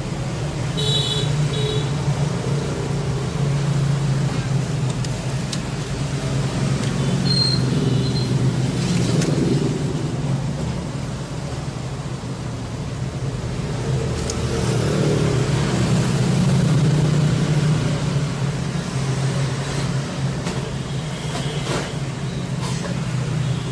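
Steady road-traffic noise that swells and fades as vehicles pass, with a couple of brief high beeps, one about a second in and one around seven seconds.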